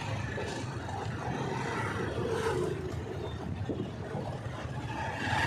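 City street traffic heard from a moving bike: a steady rumble of running vehicle engines and road noise.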